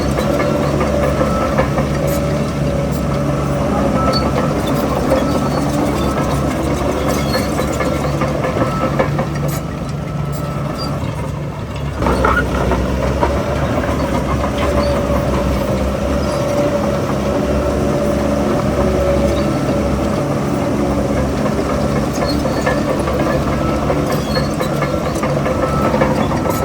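Heavy diesel engine of earthmoving machinery running steadily at work, dipping for about two seconds roughly ten seconds in before picking up again.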